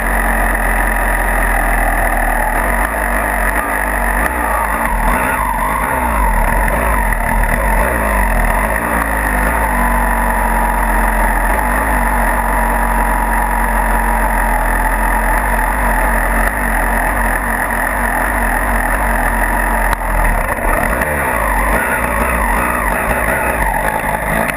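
Motocross dirt bike engine running under way, its pitch rising and falling as it is revved.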